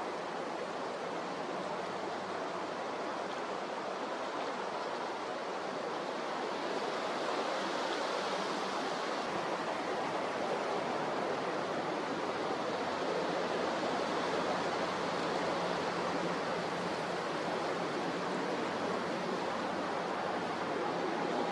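Steady rushing noise of strong wind and rough sea, growing a little louder about seven seconds in.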